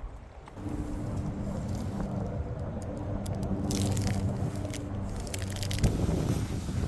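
Campfire wood crackling and popping, with sharp clusters of pops a little before the midpoint and again near the end, over a steady low engine-like hum that starts about half a second in.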